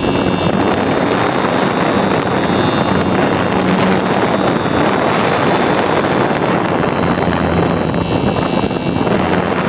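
Radio-controlled model plane in flight, recorded from a microphone taped to its underside: loud, steady wind rush over the microphone with the drone of the propeller motor underneath.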